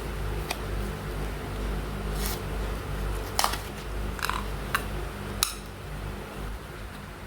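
Craft tools and materials being handled: about six scattered sharp clicks and light clinks, two of them briefly ringing, over a steady low hum.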